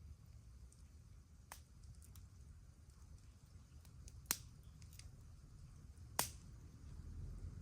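Wood campfire crackling: a few sharp, isolated pops and snaps, the two loudest about four and six seconds in, over a faint low rumble.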